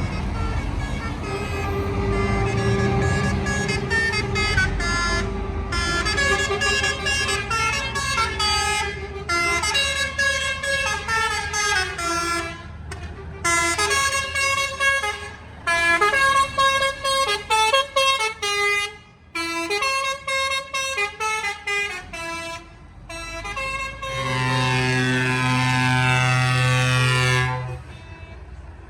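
Truck musical air horn playing a tune of short notes that change pitch step by step, over low engine rumble. Near the end comes one long held air-horn blast of several tones together, which cuts off sharply.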